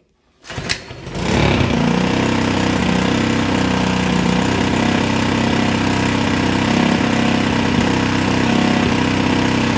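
Earthquake rototiller's small engine pull-started, catching about a second in and then running steadily with the throttle wide open. It runs without the choke, not super smooth, a sign that the freshly cleaned and reinstalled carburetor works.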